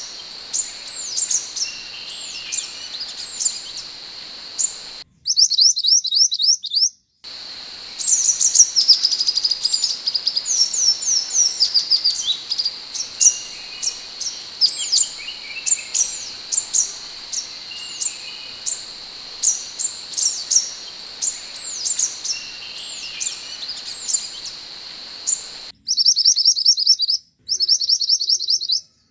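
Scarlet minivets (sepah hutan) calling: rapid series of short, high chirps and whistles, over a steady high-pitched tone. Twice, near the start and near the end, clean bursts of quick chirp trains are spliced in with a silent background.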